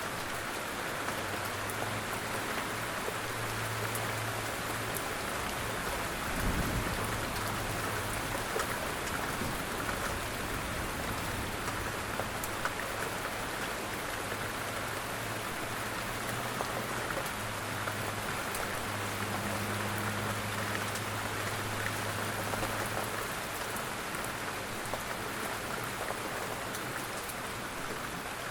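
Steady rain falling, an even hiss with many small drop ticks on a surface. A low hum comes and goes underneath, and there is a dull thump about six and a half seconds in.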